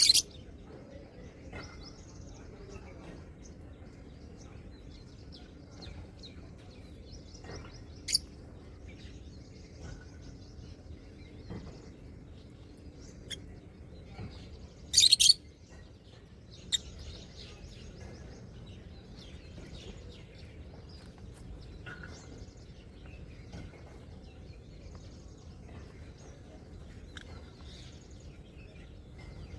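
Small pet parrots chirping and chattering continuously, with a few loud, shrill calls standing out: one at the start, one about eight seconds in, a longer one around the middle and a short one just after.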